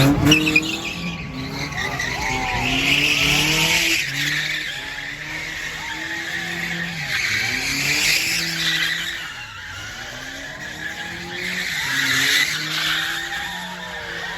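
A car drifting: its engine revs up and drops back over and over while the tyres squeal in long screeches that swell a few seconds in, again around eight seconds and near twelve seconds.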